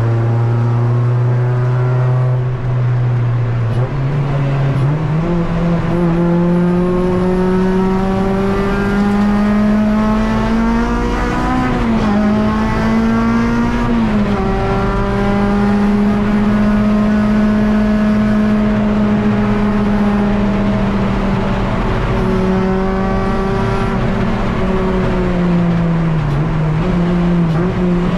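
Honda K24 four-cylinder engine of a Civic EG race car running under load. Its note starts lower, climbs, then holds mostly steady at high revs, with brief dips about twelve and fourteen seconds in and a wavering near the end.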